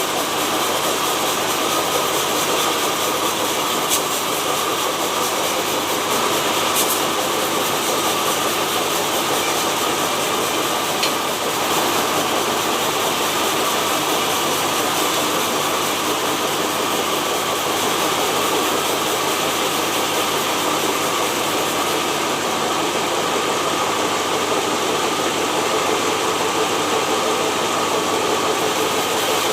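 Sawmill machinery running steadily, a constant mechanical noise with a steady hum, and a couple of faint ticks about four and seven seconds in.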